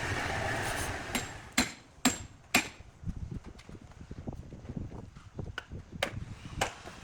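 A running engine fades away, then sharp knocks follow at about two a second: four loud ones, a short lull, and three more near the end.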